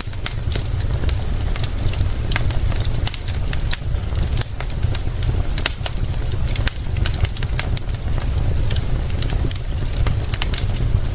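Wood fire crackling, with frequent sharp pops and snaps, over a steady deep rumble and a hiss of rain.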